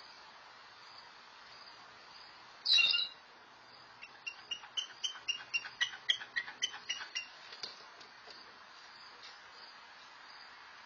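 A bird gives one loud short call, then about a second later a quick run of a dozen or so short chirps at about four a second. A steady, pulsing high insect trill runs behind it.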